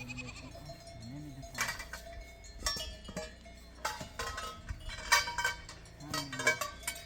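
Livestock neck bells clanking at irregular intervals, about eight strikes with a ringing tone.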